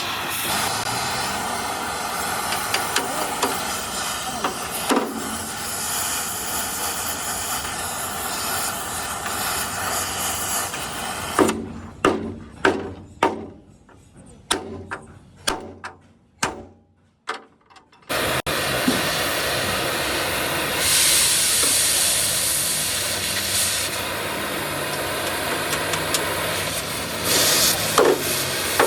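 Truck-repair workshop noise: a steady hiss, then a run of about ten sharp knocks, roughly two a second, each ringing briefly. After a sudden cut the hiss comes back, brighter for a couple of seconds.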